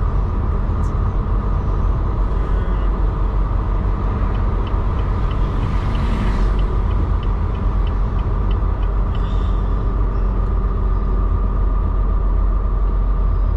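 Semi-truck cab: a steady low engine rumble with a regular ticking, about twice a second, through the first half, typical of a turn-signal relay. A brief hiss sounds about six seconds in.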